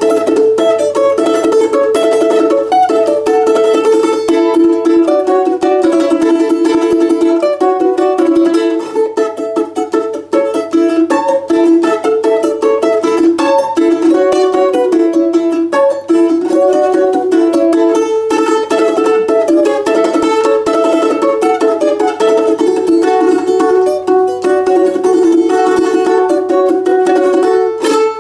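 A Russian folk plucked-string instrument plays a melody with fast tremolo picking, the notes sustained by rapid repeated strokes.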